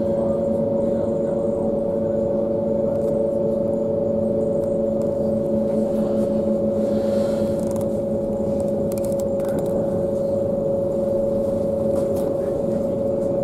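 Passenger train running at steady speed, heard inside the carriage: a steady droning hum of several held notes over a low rumbling running noise.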